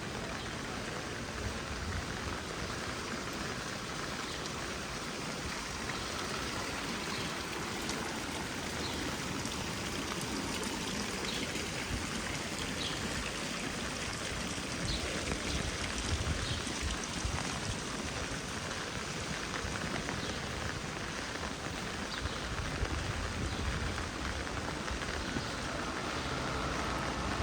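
Heavy rain falling steadily, a dense even hiss of drops, with a low rumble building near the end.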